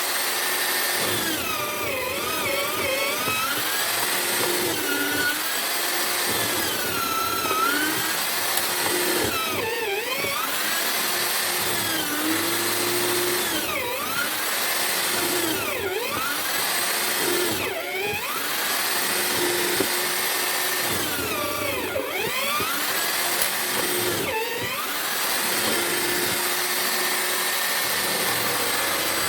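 A homemade drill-powered wood mortiser running steadily. Its motor pitch dips and recovers about every two seconds as the bit is plunged into the timber and pulled out.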